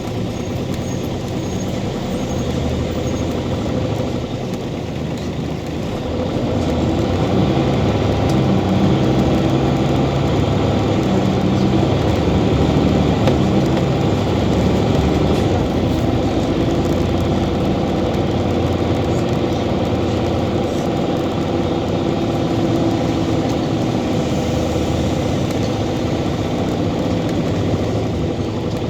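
Scania OmniCity city bus's engine running, getting louder from about six seconds in as the bus pulls away and accelerates, its pitch changing in steps before settling into a steady run.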